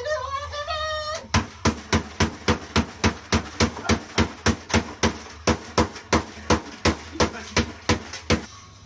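A hammer striking a CD over and over in quick, even blows, about three a second, smashing it to pieces; the run starts about a second in and stops shortly before the end.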